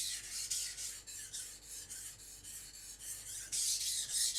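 Steel knife blade scraping across a coarse 400-grit Naniwa Professional whetstone in quick back-and-forth sharpening strokes, a gritty hiss that grows louder near the end. The sound is the sign that the very edge is in contact with the stone.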